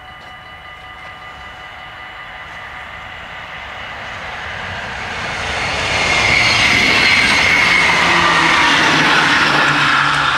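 Level-crossing bells ringing steadily while an electric train approaches and passes through the crossing. Its running noise builds from about four seconds in to a loud rush that covers the bells, then starts to fade near the end.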